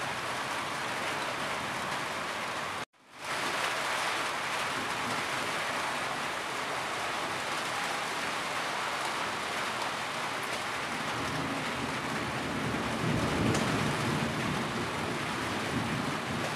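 Steady rain drumming on a corrugated tin roof, with runoff spattering from the eaves. About three seconds in, the sound cuts out completely for a moment and then fades back in. A low rumble swells in the second half.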